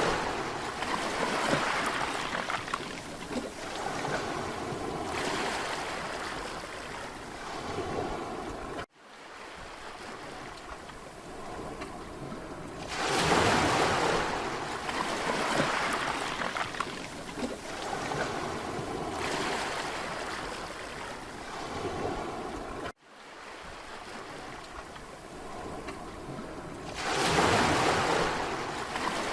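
Sea waves breaking on a beach and washing back, a big surge about every fourteen seconds with a steadier wash between. The sound cuts out abruptly twice for an instant, about nine seconds in and again at about twenty-three seconds.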